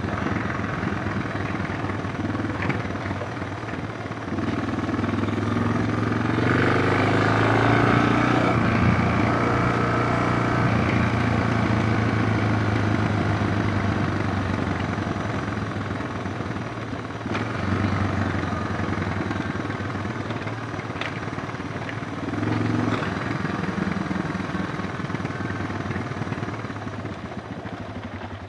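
Suzuki DR650's single-cylinder engine running, the revs rising and falling: it picks up about four seconds in, stays loud for several seconds, then eases off, with shorter swells later on.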